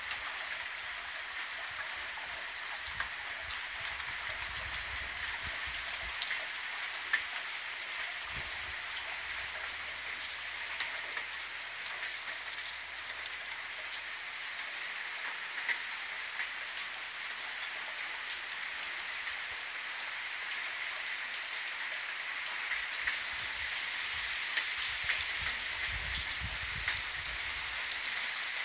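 Steady rain falling, an even hiss with many single drops ticking sharply on nearby surfaces.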